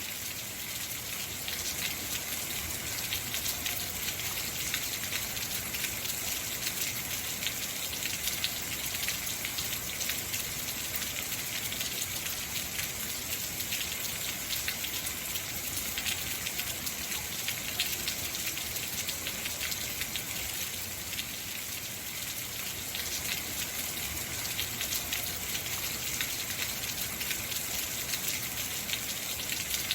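Steady heavy rain falling, with a dense hiss of countless drops striking hard surfaces.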